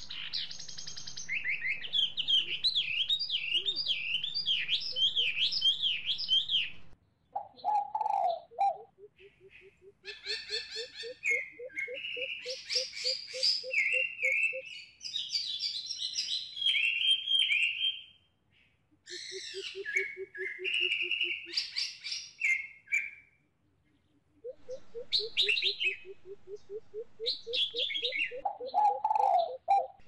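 Bird calls in bouts: quick, repeated high chirping phrases together with a low, rapid string of pulsed notes, broken by short pauses.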